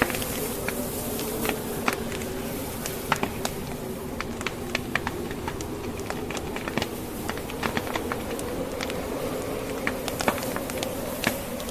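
Wood fire crackling in a fireplace, with many sharp, irregular pops from the burning logs, over a steady, wavering low howl of blizzard wind.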